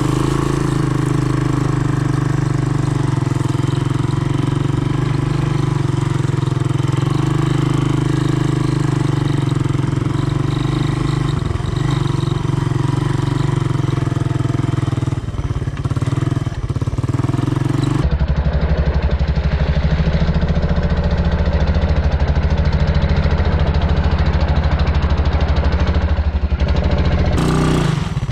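Honda ATC 200M three-wheeler's single-cylinder engine running at a steady speed. About two-thirds of the way through the note drops to a lower, steady pitch, then changes again near the end.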